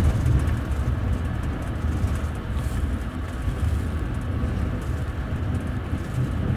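Steady low rumble of a moving double-deck TVZ passenger coach's wheels on the rails, heard from inside the upper deck.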